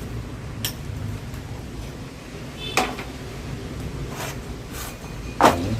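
Plastic parts of a household exhaust fan knocking and clicking as they are handled and fitted back together, about five separate knocks with the loudest near the end.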